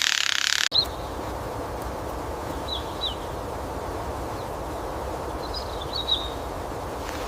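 Forest ambience: a steady low hiss with a few short, faint, high bird chirps scattered through it. It opens with a loud high hiss that cuts off abruptly less than a second in.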